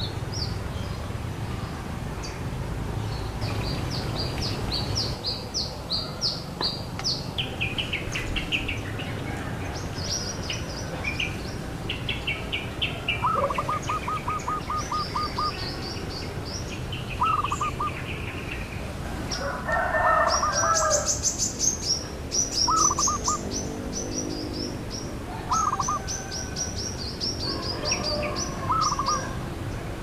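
Several songbirds chirping and singing, overlapping series of quick repeated notes at different pitches throughout, over a steady low background rumble.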